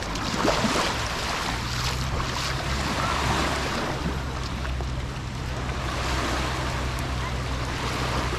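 Sea waves washing onto the beach, with wind on the microphone. A steady low hum joins about a second and a half in.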